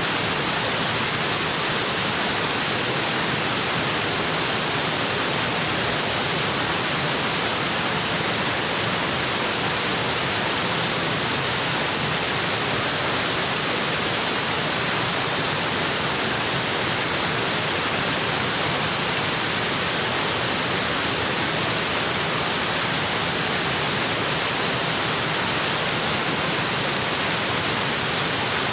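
Waterfall water pouring onto rocks, a steady, unbroken rush with no breaks or changes.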